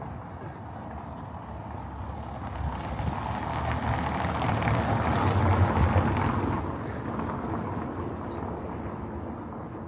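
A road vehicle driving past, its engine and tyre noise swelling to a peak about five and a half seconds in and then fading.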